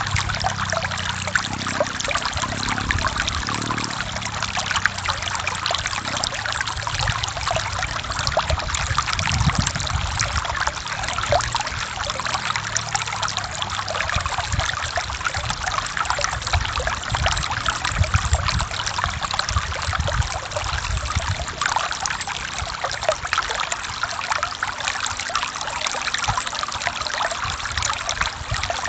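Forest stream flowing steadily, water trickling and splashing over rocks in a dense, even rush. A low rumble comes and goes under it, then dies away about three quarters of the way through.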